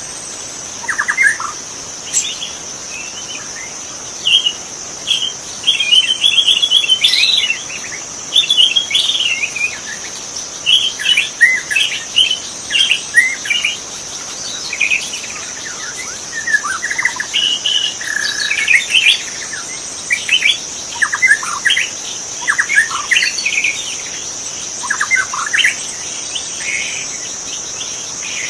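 White-rumped shama (murai batu) singing a long run of short, varied whistled and chattering phrases, over a steady high-pitched insect drone.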